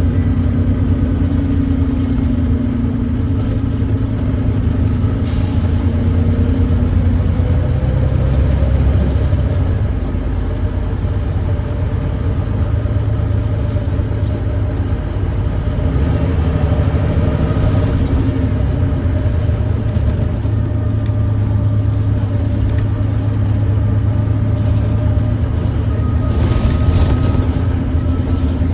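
Volvo B9TL bus's Volvo D9B 9.3-litre diesel engine working hard up a hill through its ZF Ecolife six-speed gearbox, with a downshift about ten seconds in. The engine is thrashing, and the bus has an exhaust leak.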